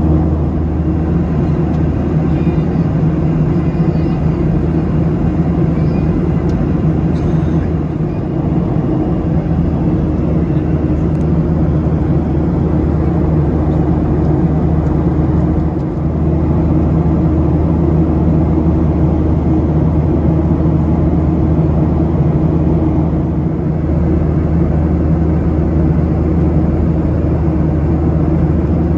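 Steady cabin drone of a Boeing 737-800 in cruise, heard from inside the passenger cabin: CFM56 jet engine and airflow noise with a constant low hum.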